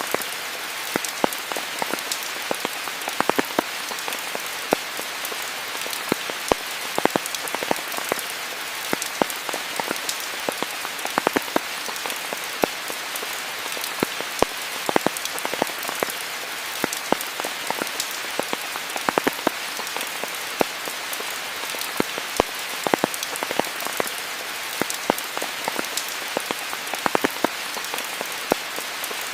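Steady rainfall: an even hiss of rain with many distinct, irregular drips and drop hits landing close by.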